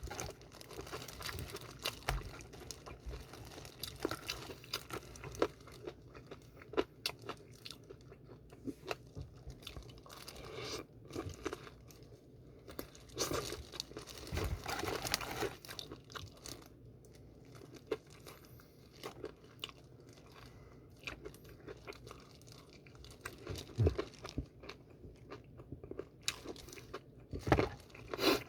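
Close-miked chewing and crunching of BHC Puringkle fried chicken: irregular bites and chews with short pauses between them.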